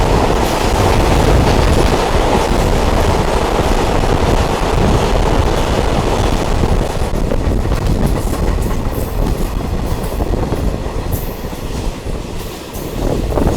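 Diesel multiple unit train running along the track, a loud steady running noise with scattered short clicks in the second half.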